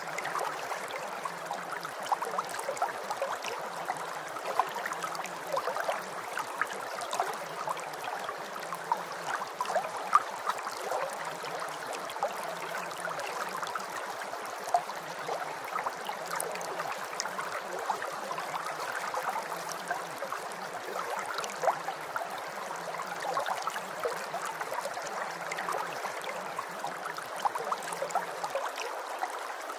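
Steady rain falling, an even hiss dotted with many small droplet ticks.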